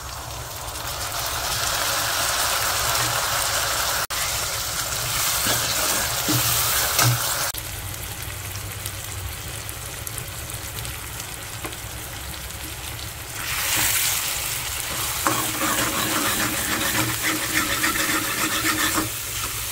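Onion-and-spice masala frying in oil in a pan, sizzling and stirred. The frying hiss is louder for the first few seconds, drops back in the middle, and rises again for the last third.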